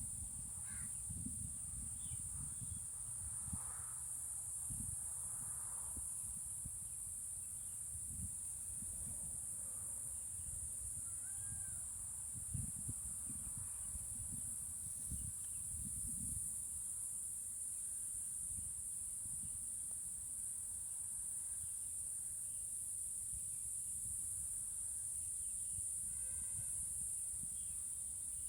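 Outdoor nature ambience: a steady high-pitched insect chorus of crickets or cicadas, with wind buffeting the microphone in low gusts and a few faint bird calls, possibly crows, mostly in the first half.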